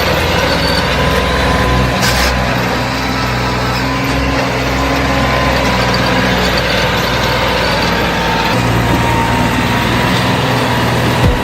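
Tractor diesel engine running steadily, its low note getting stronger about eight seconds in, with a brief hiss about two seconds in.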